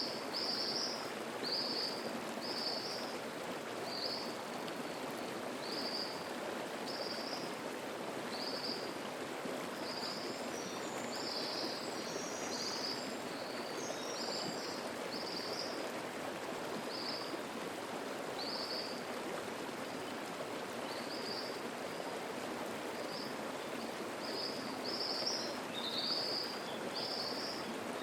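Mountain stream babbling steadily, with a songbird repeating short, high notes about once a second. A few higher notes from another bird join in the middle.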